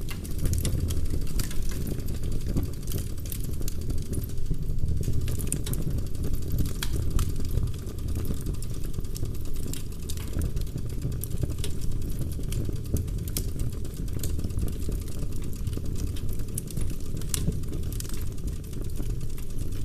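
Wood fire in a fireplace, burning logs crackling and popping at irregular intervals over a steady low roar of the flames.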